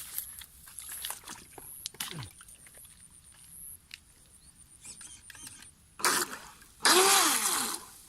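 Faint handling clicks, then near the end a loud rush of splashing water about a second long as the FT010 RC speedboat is set into the water.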